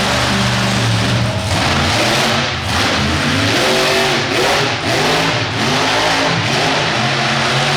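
Monster truck engine revving hard, its pitch rising and falling over and over as the throttle is opened and briefly lifted.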